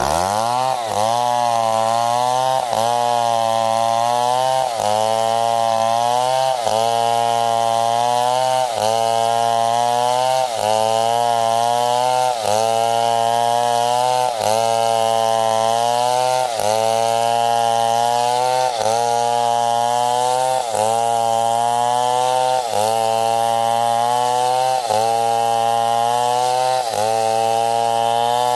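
Stihl 070 two-stroke chainsaw running at high revs while cutting through wood. Its pitch climbs at the start, then sags briefly and recovers about every two seconds as the chain bites under load.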